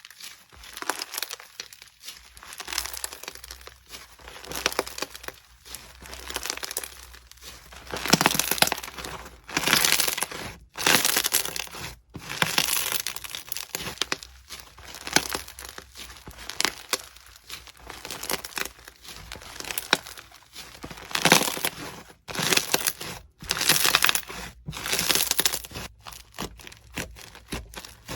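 Crunchy slime being squeezed and pressed, crackling and crunching in a string of squeezes about one to two seconds apart.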